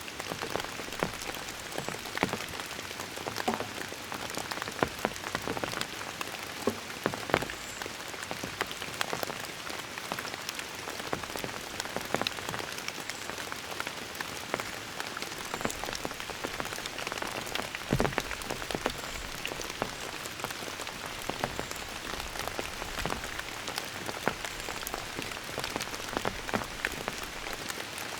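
Steady rain, with many single drops striking close by as sharp taps over the even hiss of the downpour.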